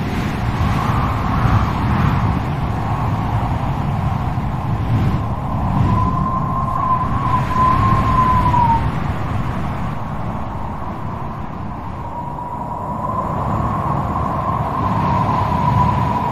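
Strong wind blowing, with a deep rumble and a thin howling whistle that wavers in pitch, strongest around the middle and again near the end.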